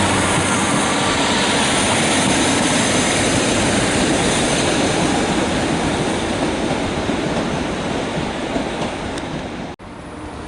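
A train running past close by: a loud, steady rush of wheels on rail that eases off slightly, then is cut off abruptly near the end.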